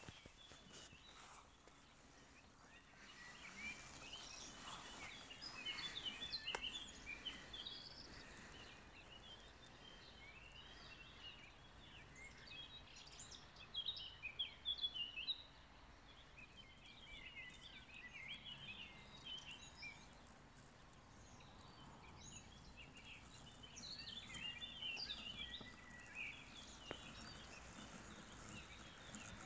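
Birds chirping and singing in short repeated bouts, over a faint, even outdoor background hiss.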